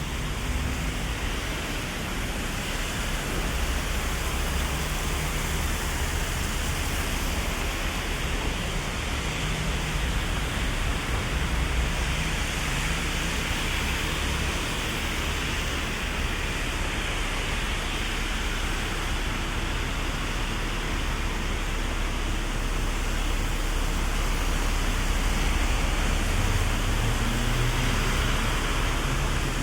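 Heavy rain falling on an umbrella and the street, a steady hiss, with city traffic rumbling underneath. Near the end a vehicle's engine tone rises as it passes.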